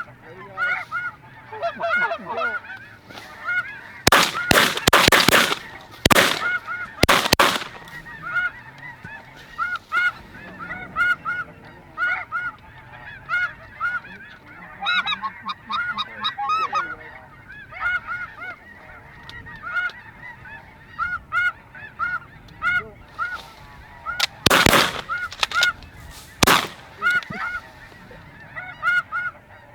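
Snow geese calling continuously in a dense chorus of short, high, repeated honks. Shotgun shots cut through it in two clusters: a quick volley of several blasts about four seconds in with two more around seven seconds, and another three or four around twenty-five seconds.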